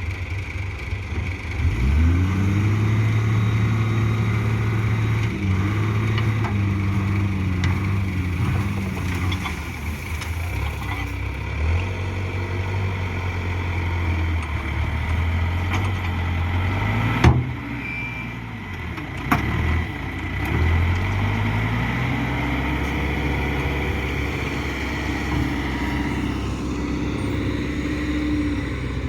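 Backhoe diesel engine revving up under load and running at high revs, dropping back and revving up again as it works. A single sharp metallic knock comes about two-thirds of the way through.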